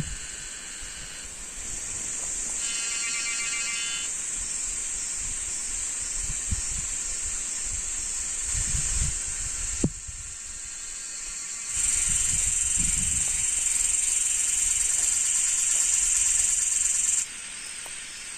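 Insects droning in a high-pitched, steady buzz that grows louder and softer abruptly several times. A short pulsing trill joins in about three seconds in, and there is one sharp click near the middle.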